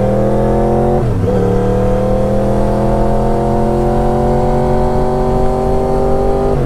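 Yamaha YZF-R1 inline-four sport-bike engine pulling under acceleration. About a second in, the pitch dips briefly at a gear change, then climbs slowly and steadily in the next gear.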